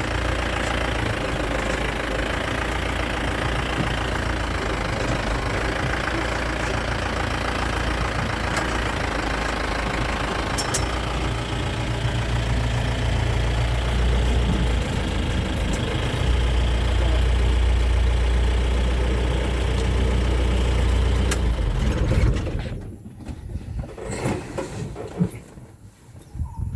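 A motor vehicle's engine running steadily, then stopping suddenly near the end, after which only faint scattered sounds remain.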